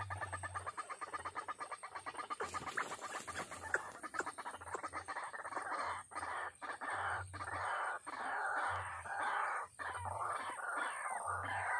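White-breasted waterhen calling: a fast run of repeated croaking notes, then, from about four seconds in, a dense, harsher stretch of calls broken by brief pauses, with short falling notes near the end.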